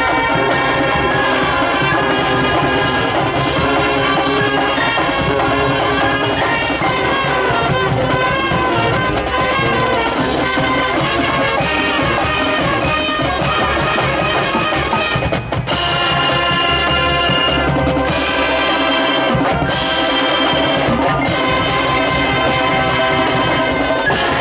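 High school marching band playing: brass with drums and percussion, one continuous passage with a brief break about fifteen seconds in.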